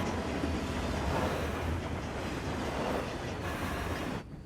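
Cartoon sound effect of a train running: a steady low rumble and rattle that cuts off abruptly near the end.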